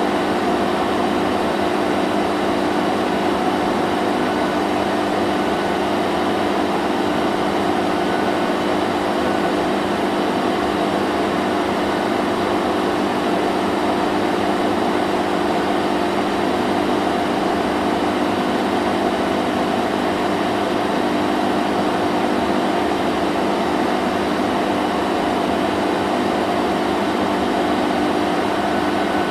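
Vacuum cleaner running steadily: a constant motor hum with a few steady tones over an even rushing hiss, with no change in speed.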